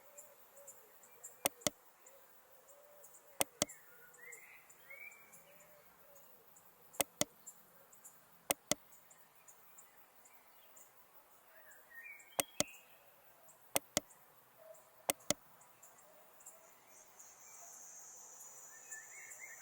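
Computer mouse clicks, mostly in quick pairs, every second or few, over a faint background hiss with a few soft chirps.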